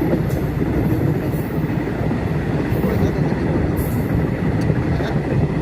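Passenger train running along the track, heard from inside the coach: a steady low rumble of wheels and carriage, with scattered faint clicks and rattles.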